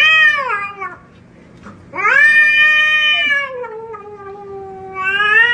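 A cat yowling in long, drawn-out wails: one fading about a second in, another from about two seconds that sinks into a lower moan, and a third rising near the end. This is a hostile cat's warning yowl, not a friendly meow.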